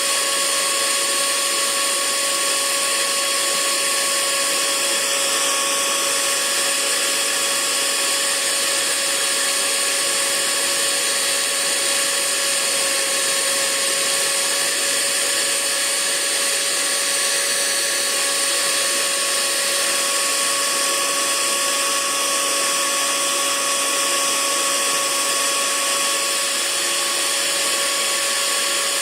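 Hair dryer running steadily: a constant rush of blown air with an even motor whine on top.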